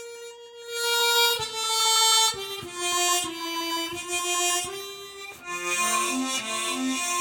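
Harmonica playing a slow melody of long held notes. Lower accompanying notes join about two-thirds of the way in.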